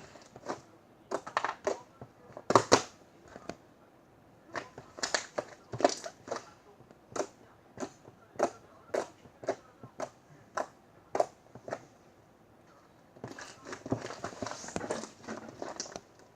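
Slime being squished and pressed by hand, making irregular sticky pops and crackly clicks, with a denser run of crackling near the end.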